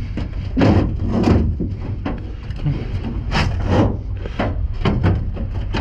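Irregular knocks and scrapes of junk and scrap being handled and shifted, a dozen or so short strikes over a steady low rumble.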